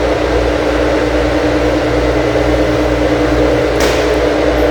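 Single-phase AC induction motor running steadily under test at 240 volts, a constant electrical hum. There is a slight shudder, which the tester puts down to the switch vibrating inside the motor.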